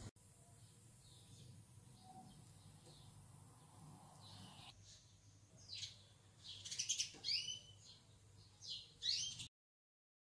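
Small birds chirping: a few faint calls at first, then a run of louder, falling chirps in the second half, cut off abruptly near the end.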